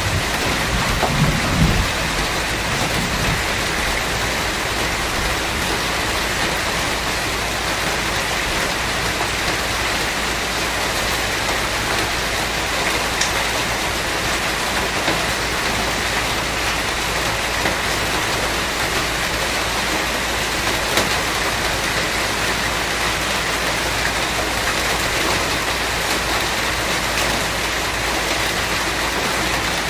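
Steady rain, with a brief low rumble of thunder a second or two in.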